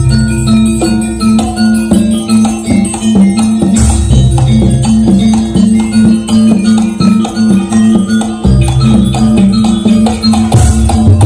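Jaranan dance music from a gamelan-style ensemble: a fast, repeating pattern of pitched metal percussion notes over drums. A deep low layer drops out about a second in and again around eight and a half seconds, returning each time.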